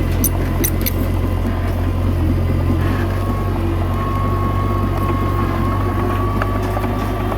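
Komatsu D21A bulldozer's diesel engine running steadily, with a thin steady whine above it and a few sharp metallic clicks about half a second in.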